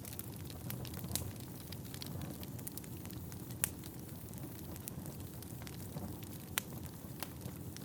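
Wood fire burning in a fireplace: a steady low rumble of flames with scattered crackles, and two louder pops about three and a half and six and a half seconds in.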